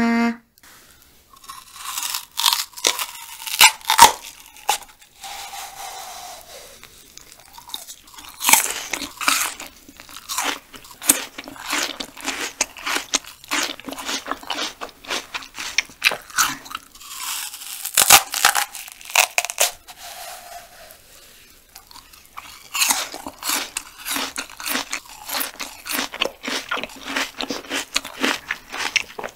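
Close-miked biting and chewing of raw banana stem core (the white pith of the banana plant): crisp, juicy crunches in quick runs, with the stringy fibres pulling apart as it is bitten.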